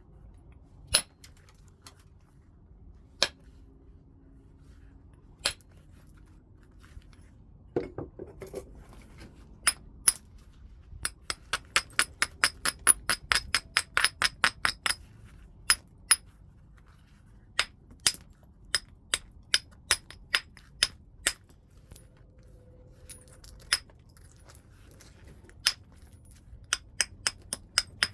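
Knapping percussion on heat-treated Burlington chert: hard clicks of a tool striking the stone, a few single blows spaced seconds apart, then runs of quick light taps at about four a second.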